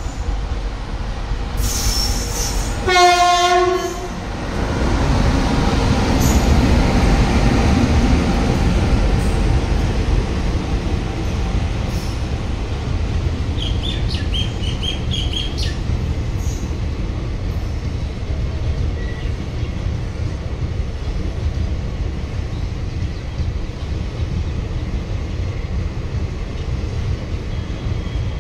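A WAP-7 electric locomotive sounds one short horn blast about three seconds in, then its passenger coaches rush past with a steady rumble of wheels on rail. A brief high wheel squeal comes near the middle.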